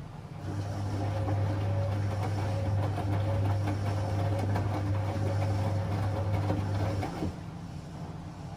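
Whirlpool FL 243-500 washing machine running during its fabric-softener rinse: a steady low hum with some rattling starts about half a second in and cuts off after about six and a half seconds.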